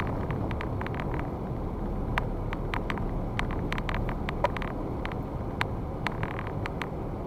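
Car driving on a rough unsealed road, heard from inside: a steady low road and engine rumble with frequent sharp ticks and knocks from stones and rattles.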